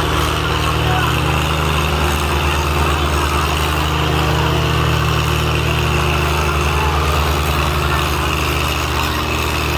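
Tractor's diesel engine running steadily at a constant speed, a deep even drone.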